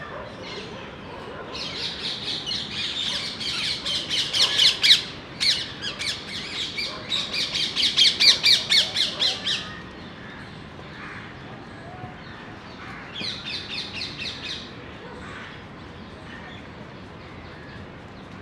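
Bird squawking in rapid runs of harsh calls: a long run, broken briefly partway through, then a shorter run a few seconds later.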